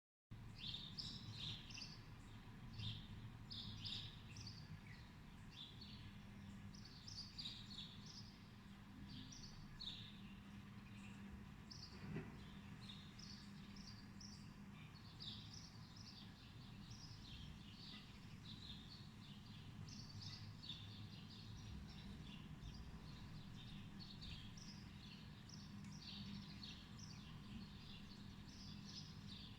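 Many small birds chirping in quick short calls throughout, over a low steady hum.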